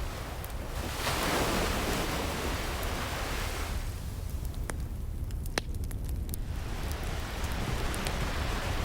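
Ocean waves washing ashore, one swelling about a second in and ebbing by four seconds, another building near the end, over a steady low rumble. A wood fire crackles with scattered sharp pops throughout.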